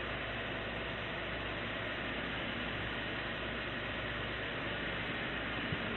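Steady, even hiss of recording noise with a low hum underneath; no music or singing.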